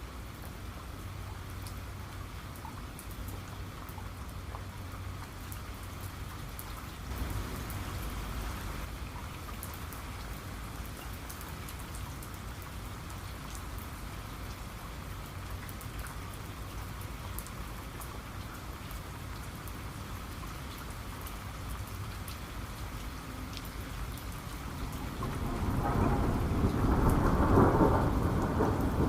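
Steady rain with scattered drip ticks, and thunder: a faint low rumble about seven seconds in, then a loud rolling rumble building up over the last few seconds.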